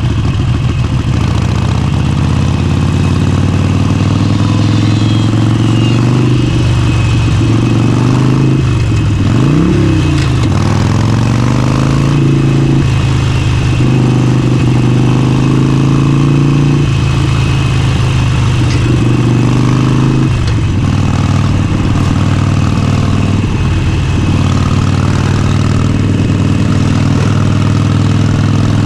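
Motorcycle engine running while under way, its note steady between several breaks where it drops and picks back up, with one sharp dip and climb about ten seconds in.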